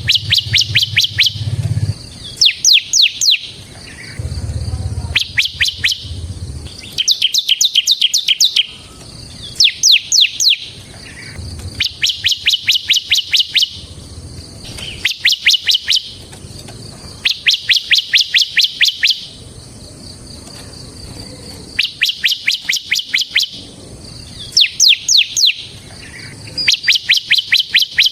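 Bar-winged prinia (ciblek) singing: repeated phrases of fast, high, chirping notes, each a second or two long, coming every two to three seconds.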